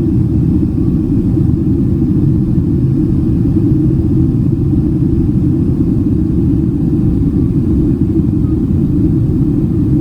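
Steady low rumble of cabin noise inside a Boeing 767-300ER airliner: engine and airflow noise, even throughout with no changes.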